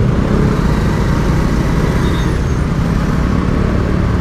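Steady engine and road noise from a motorcycle being ridden through city traffic.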